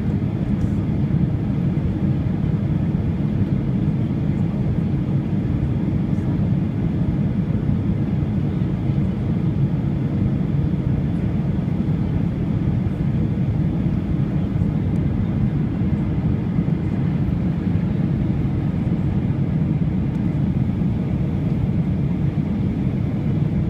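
Cabin noise inside a Boeing 737-800 with its engines running: a steady low rumble that neither rises nor falls.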